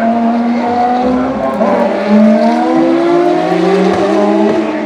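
Ferrari FXX K's V12 racing engine accelerating hard on track, its pitch climbing and dropping back in steps with several quick upshifts.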